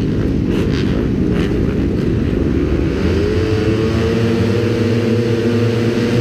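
Kawasaki motocross bike engine running hard. It is rough and uneven at first, then about three seconds in it climbs into a steady high-revving tone that it holds.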